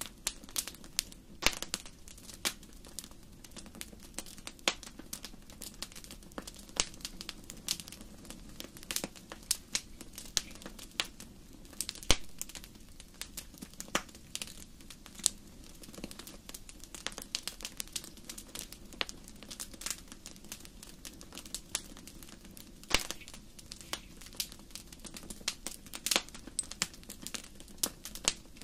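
Wood fire crackling in a fireplace: irregular sharp pops and snaps, some louder than others, over a faint steady low background.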